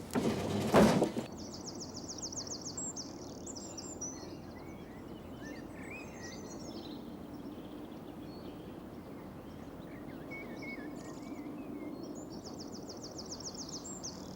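Songbirds singing outdoors: a fast, high trill of rapidly repeated notes twice, with scattered chirps in between. A loud noise in the first second.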